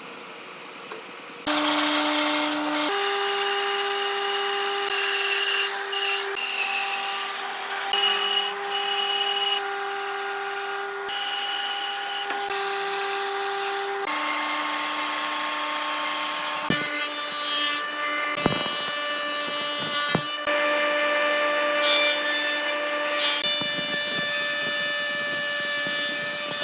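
An electric power tool running against wood, starting about a second and a half in. Its motor tone steps up and down in pitch a few times, and a few sharp knocks come a little past the middle.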